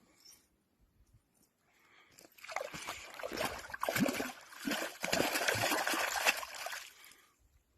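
Water splashing and sloshing, starting about two seconds in and lasting about four and a half seconds, then stopping.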